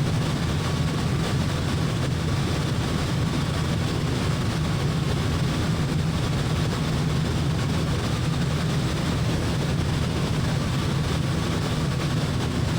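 Small single-engine piston airplane in cruise, its engine and propeller droning steadily, heard from inside the cockpit, with a faint steady whine above the drone.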